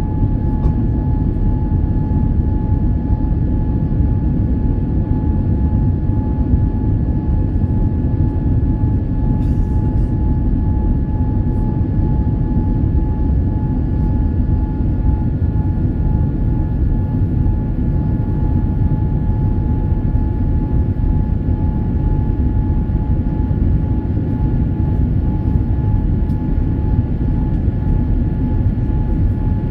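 Boeing 787 airliner, heard as a loud steady rumble with a faint constant whine above it, unchanging in level throughout.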